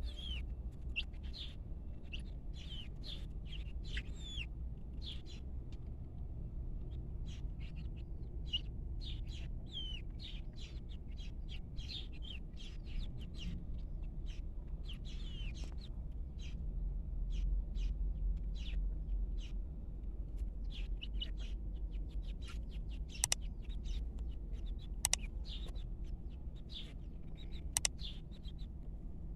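Birds chirping busily: many short high-pitched chirps, several sliding down in pitch, over a steady low hum. Three sharp clicks come in the last quarter.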